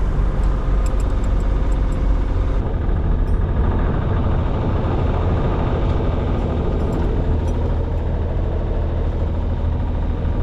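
Sailing yacht's engine running steadily under motor, a low hum beneath a constant rush of noise.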